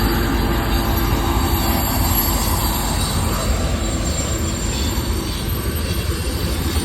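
Train passing close by: a loud, steady rumble of wheels on the rails that eases slightly about halfway through.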